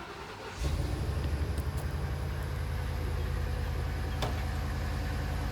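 A vehicle engine running steadily at a low, even idle, cutting in abruptly about half a second in.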